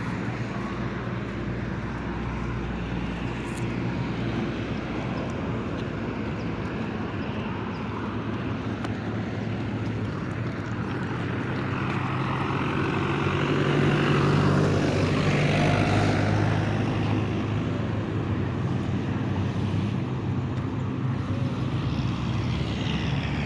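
Engine noise from something passing: a steady low drone that swells to its loudest around the middle and then fades again.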